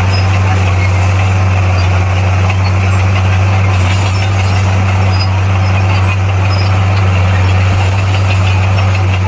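Bulldozer's diesel engine running steadily: a deep, even hum with a rough noisy layer above it and no change in speed.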